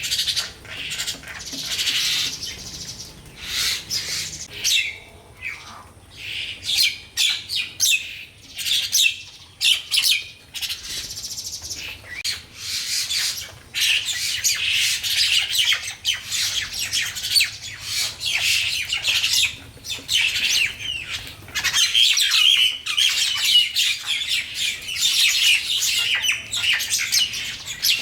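Many small birds chirping and twittering together, a steady stream of short, high calls; the calls come more spaced out in the first half and pack into a continuous chorus in the second.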